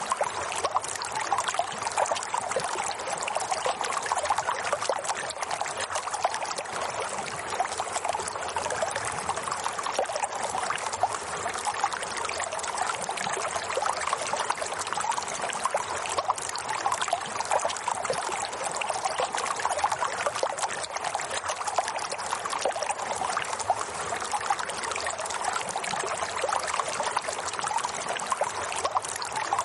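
Steady running water, a continuous trickling flow with no pause or change.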